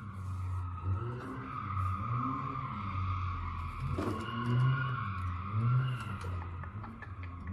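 A car on the road: engine and driving noise with a low tone that rises and falls about once a second.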